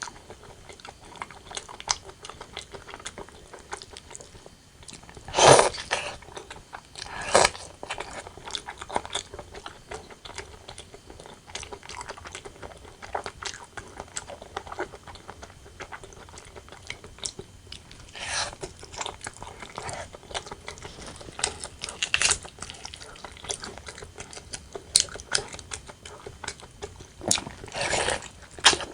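Close-miked eating: chewing and biting on braised pork belly and rice, with a steady run of small wet mouth clicks and a few louder bites.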